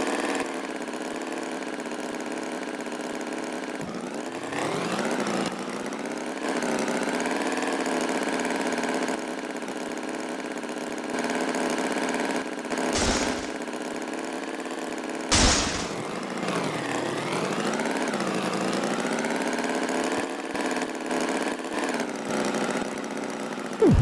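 Engine-like steady drone with several pitches, sliding up and down in pitch twice. There are two short hissing bursts, about 13 and 15 seconds in.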